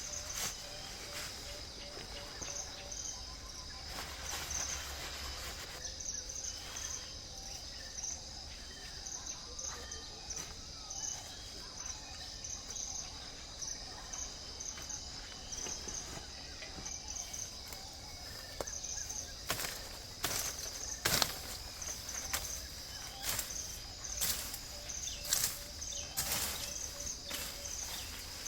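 Steady high-pitched insect chorus, crickets or similar, with a fast pulsing chirp over a continuous buzz. About two-thirds of the way in, a series of sharp knocks joins it.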